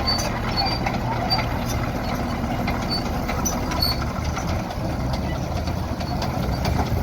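Old Case farm machine's engine running steadily, a low even hum with faint short high ticks over it.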